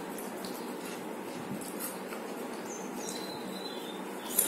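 Crisp fried papad being bitten and chewed: faint crunches, then one sharp crunching bite near the end, over a steady background hiss.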